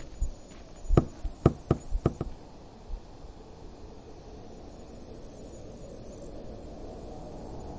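Five sharp knocks in quick succession about a second in, followed by a faint steady low hiss that slowly grows louder.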